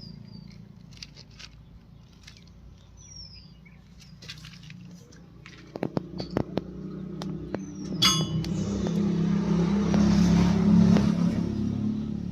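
Tractor diesel engine running steadily, with scattered metallic clinks and one ringing clink about eight seconds in. The engine noise swells louder over the last few seconds before easing back.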